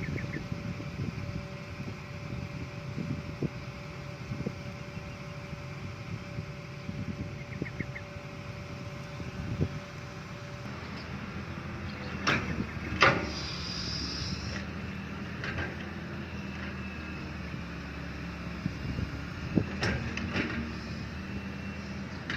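Excavator's diesel engine running steadily, with a few sharp knocks, the loudest about thirteen seconds in and another cluster near twenty seconds.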